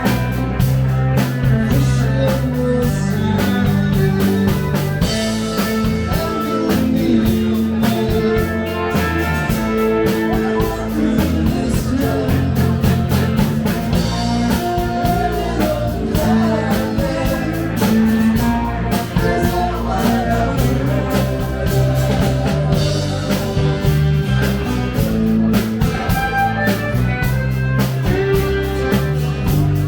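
A rock band playing live, with electric guitar, bass and a drum kit keeping a steady beat.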